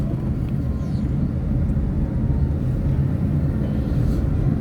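Small car driving slowly downhill, a steady engine and road rumble heard from inside the car.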